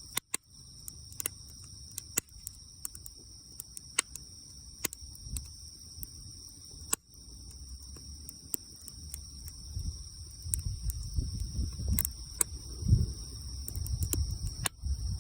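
Campfire crackling, with scattered sharp pops, over a steady high-pitched insect chorus. A low rumble builds toward the end.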